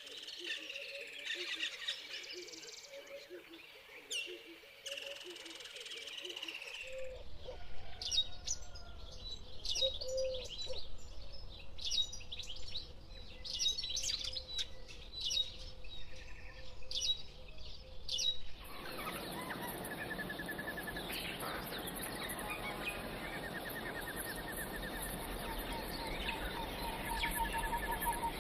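Wild birds singing and calling, in separate recordings cut one after another. First come short repeated notes. About a quarter of the way in, sharp high chirps start over a low rumble. About two-thirds through, several birds call over a steady hiss.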